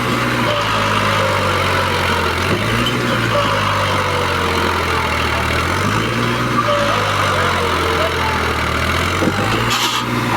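New Holland 3630 tractor's diesel engine running steadily, its pitch sagging and recovering a couple of times.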